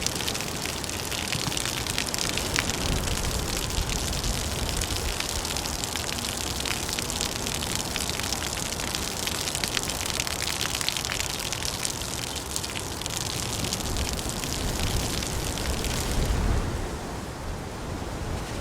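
Steady heavy rainfall, a dense hiss of drops with many small patters. About sixteen seconds in the bright hiss drops away, leaving a duller, lower rain sound with a brief low rumble.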